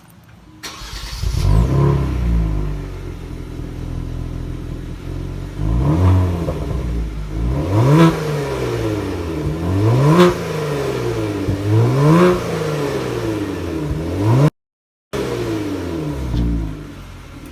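Kia Stinger GT's 3.3-litre twin-turbo V6 cold-starting through aftermarket SSR Performance downpipes, catching with a loud flare about a second in and settling to a fast idle. It is then revved four times about two seconds apart, each rev climbing and dropping back to idle, with a brief dropout near the end.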